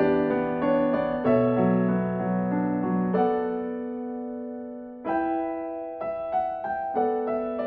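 Background music: gentle piano or electric piano playing sustained chords and single notes, with a chord fading out in the middle before new notes come in.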